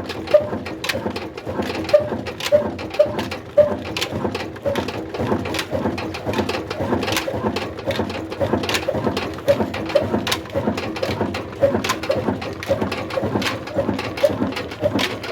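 Large old stationary diesel engine of the Ruston-style 'old black engine' type, running at slow speed with an even chugging beat of about two firing knocks a second.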